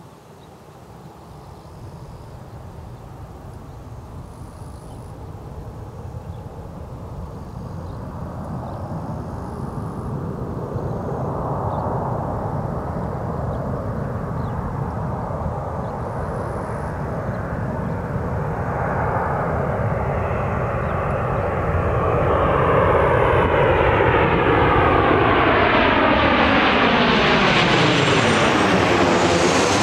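Boeing 737-800 on landing approach, its CFM56-7B turbofan engines growing steadily louder as the jet draws near. In the last several seconds, as it comes close, the roar sweeps up and down in pitch.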